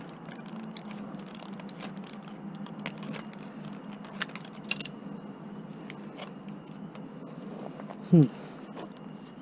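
Small clicks and scrapes of a screwdriver working at stuck screws in a small appliance's casing, over a steady low hum. About eight seconds in there is one short, loud squeak that falls quickly in pitch.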